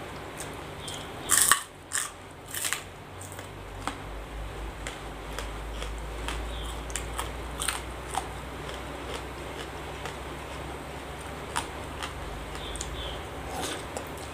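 Close-up eating sounds: a few sharp crunching bites of raw vegetables in the first three seconds, then quieter chewing with scattered small clicks.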